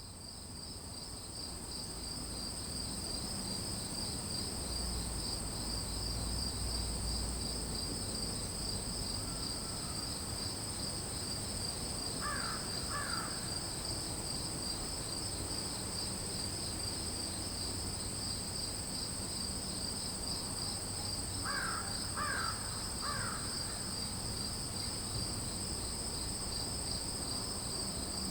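Crickets trilling in a steady, high chorus, with a crow cawing twice about twelve seconds in and three times about twenty-two seconds in. The sound fades in over the first few seconds.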